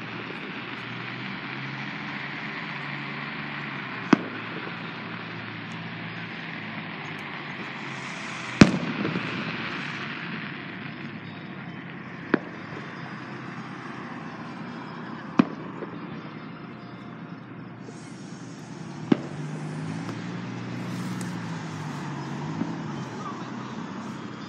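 Aerial fireworks shells bursting: sharp single bangs every three to four seconds, five in all, the loudest about eight and a half seconds in. A steady background hiss runs underneath.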